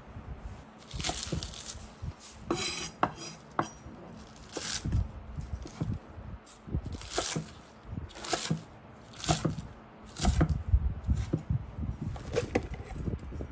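Kitchen work sounds: irregular knocks and clinks of utensils against a wooden board and dishes, roughly one a second.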